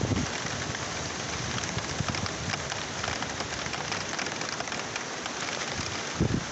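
Heavy rain falling steadily, a dense patter of drops. A brief low rumble sounds near the end.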